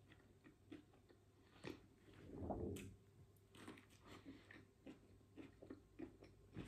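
Faint, close-up chewing and biting of a soft white-bread sandwich with processed cheese slices and cooked red peppers, made up of small wet mouth clicks. About two and a half seconds in there is a brief, louder, muffled mouth sound.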